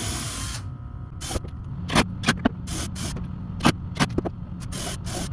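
A power drill driving a screw into the wooden box boards runs briefly and stops suddenly about half a second in. It is followed by a string of sharp clicks and knocks as the drill and boards are handled.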